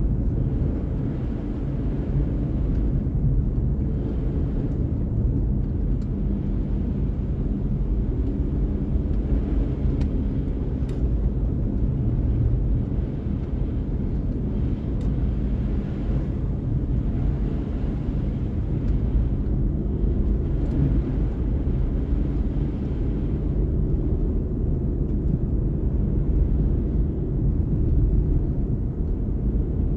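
Car driving at a steady speed: a low, even rumble of engine and tyre noise.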